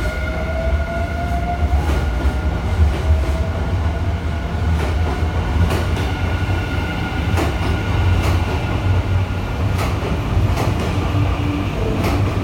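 Nankai electric train running at low speed: a heavy, steady rumble with wheels clicking over rail joints about once a second, and a faint motor whine that rises slightly near the start.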